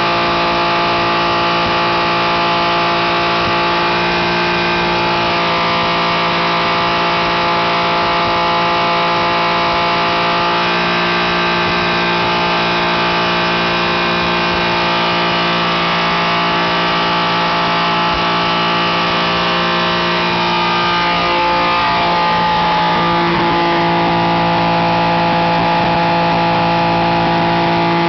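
BMW S54 inline-six in an E36 M3 running loud on a chassis dyno through a 3-inch exhaust with a titanium muffler. It holds steady engine speeds, stepping to a new steady note about ten seconds in and shifting again about two-thirds of the way through.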